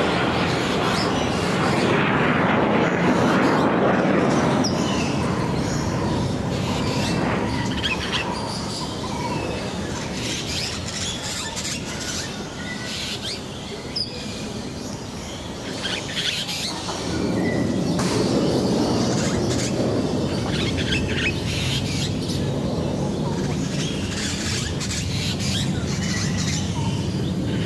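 Birds chirping now and then in an aviary, over a steady low rumble that fades about seven seconds in and swells again after about seventeen seconds. A single sharp click comes about fourteen seconds in.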